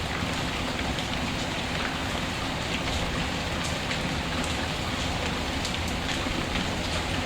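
Steady rain falling, with scattered faint ticks and light taps throughout.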